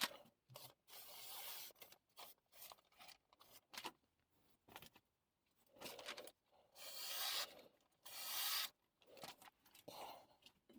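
Chef knife blade drawn across a Missarka combination whetstone in several separate strokes with pauses between them.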